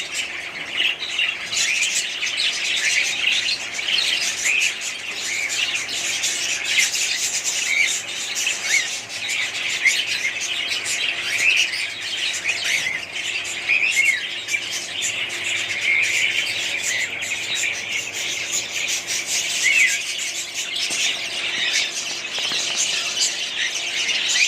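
Many small birds chirping and squawking at once, dense overlapping high calls with no break.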